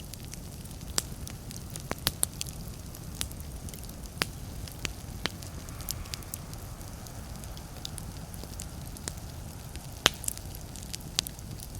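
Wood fire in a fireplace crackling: irregular sharp pops and snaps over a low steady rumble, with the loudest pop near the end.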